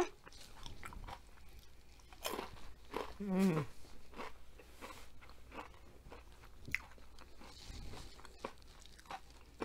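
Close-up chewing of a crunchy fried onion ring, with scattered crisp crunches as it is bitten and chewed. About three and a half seconds in there is a short hummed "mmm".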